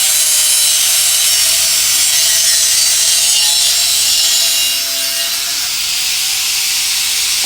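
Power saw cutting through a 100 x 50 mm stainless steel rectangular tube with a 2 mm wall: a steady, loud, high-pitched hiss of blade on steel, with faint ringing tones that shift in pitch, easing slightly about five seconds in.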